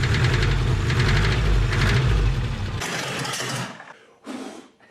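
Subaru Brat's flat-four engine running with a rhythmic knock, taken for a rod knock. About three seconds in the engine sound cuts off, giving way to a brief hissing noise and a short burst.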